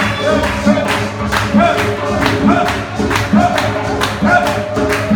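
Gospel song with voices singing over instruments and a steady beat of sharp strokes, about two a second.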